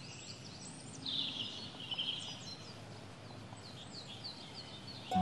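Birds chirping and singing over faint steady outdoor background noise, with many short, quick chirps. A louder warbling call comes from about one to two and a half seconds in.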